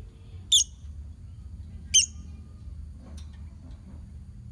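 Lovebirds in a colony giving two short, sharp, high-pitched calls about a second and a half apart, then a fainter call about three seconds in, over a steady low hum.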